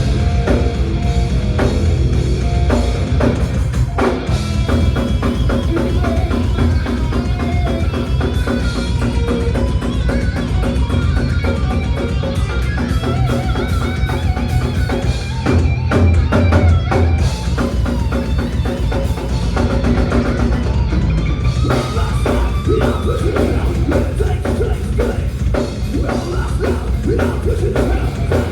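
Live thrash metal band playing loud and fast: distorted guitars, bass and a pounding drum kit with heavy bass drum, recorded from the crowd.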